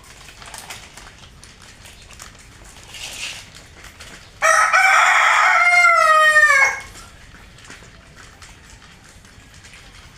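A rooster crowing once, about two seconds long, starting a little over four seconds in and dropping in pitch at the end.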